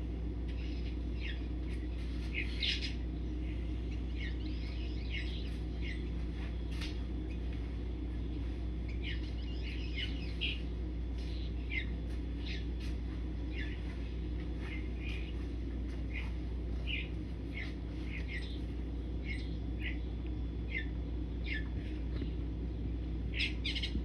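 Small birds chirping, many short, quick chirps coming irregularly throughout, over a steady low hum.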